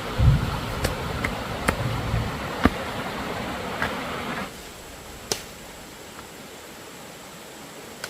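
A series of sharp, irregular knocks and taps over a steady background hiss, with two dull low thumps in the first couple of seconds; the hiss drops off suddenly about halfway through, leaving a few more isolated knocks.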